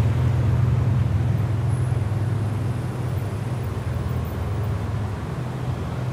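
Car engine running with a steady low drone that slowly grows quieter over several seconds.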